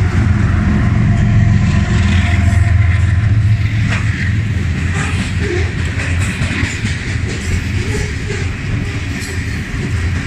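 Mid-train diesel locomotives, a CSX GE AC4400CW among them, passing close with a deep engine drone, the CSX unit's V16 diesel. About four seconds in the drone fades and covered grain hopper cars roll by with a steady wheel-on-rail rumble and scattered clicks.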